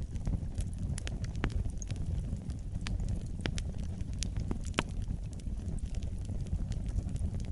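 Wood fire burning in a fireplace: a low steady rumble of flames with sharp, irregular crackles and pops.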